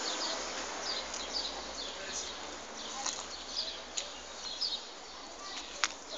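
Small birds chirping now and then over a steady outdoor background hiss, with one sharp click near the end.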